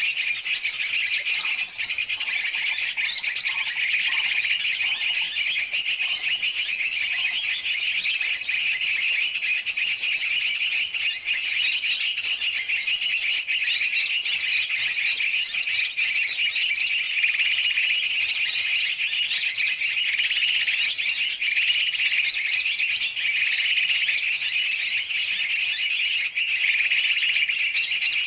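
Dense, continuous chirping and twittering of many birds at once: a bird-lure (pikat) recording mixing noisy big- and small-bird calls, used to draw in yellow-vented bulbuls.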